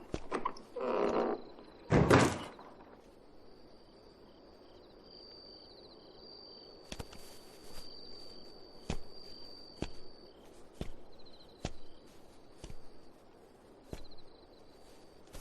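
A wooden door being opened, then pushed shut with a thunk about two seconds in. After that, crickets chirp steadily in the background, with soft taps about once a second.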